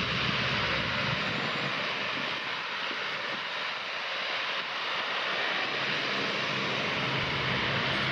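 Dash 8 turboprop airliner heard as a steady, broad rushing noise of engines and propellers, with the low rumble fading about a second in.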